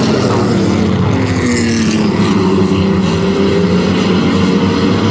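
Engines of several racing trucks running at speed on the track, their notes overlapping; one slides down in pitch about a second in.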